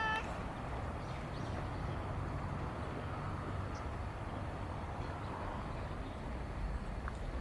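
Steady outdoor background noise with a low rumble, like distant traffic or wind. The tail of a cat's long meow cuts off right at the start.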